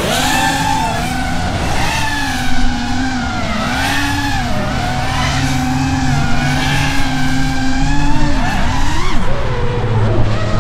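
The brushless motors of a 5-inch FPV quadcopter (iFlight Nazgul5) whining in flight, their pitch rising and falling with the throttle.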